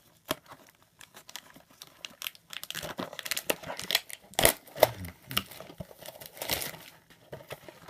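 Trading-card wrapper crinkling and tearing as a box or pack is handled and opened. It comes as a run of irregular crackles that thickens from about two and a half seconds in.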